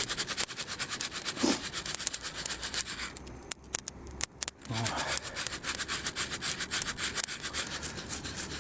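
Coffee beans being shaken in a hand roaster during roasting: a fast, even rattling scrape that pauses for about a second near the middle.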